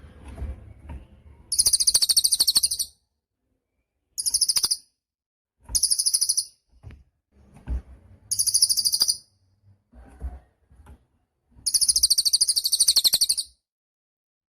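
Cililin songbird singing: five very high, rapid buzzing trills, each half a second to a second and a half long, separated by short pauses, the last one the longest.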